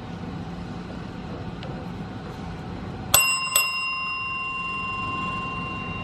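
A small bell struck twice in quick succession about three seconds in, its ring lingering and slowly fading, over a steady background hiss.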